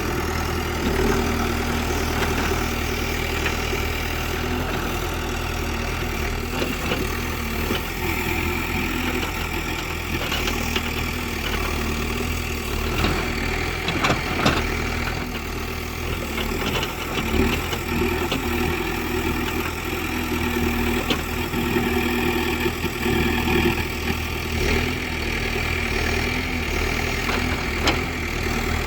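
A backhoe loader's heavy diesel engine running steadily, with a few sharp knocks about ten and fourteen seconds in.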